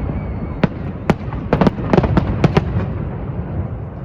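Fireworks display going off: a string of sharp cracks and bangs, coming thick and fast in the middle, over a steady low rumble of more distant bursts.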